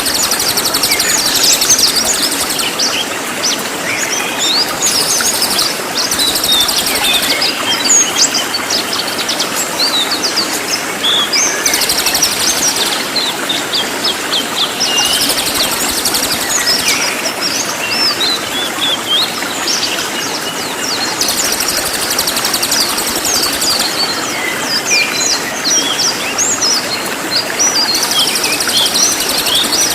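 Cililin birdsong: a rapid, dense run of high, sharp chirps and quick whistled sweeps, kept up without a break over a steady background hiss.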